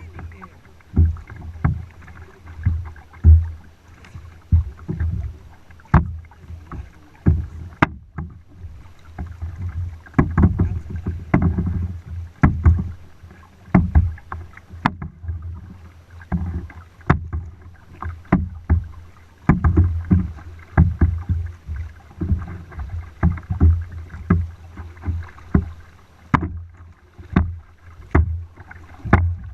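Kayak being paddled: irregular low thumps and knocks, about one a second, as the paddle strokes the water and water slaps the hull.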